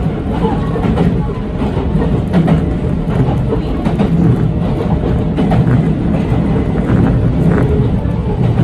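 Yoro Railway electric train running along the track, heard from inside the driver's cab: a steady low rumble of wheels on rail, with irregular clicks as the wheels pass rail joints.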